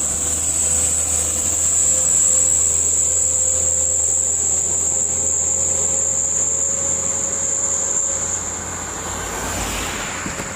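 Heavy diesel trucks labouring up a steep grade in low gear, a steady low engine rumble with a steady high whine over it; a second vehicle swells past about nine seconds in.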